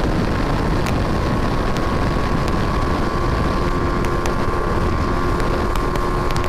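BMW G 310 R single-cylinder engine pulling at full throttle in fourth gear during a top-speed run, heard steadily under heavy wind rush at speed.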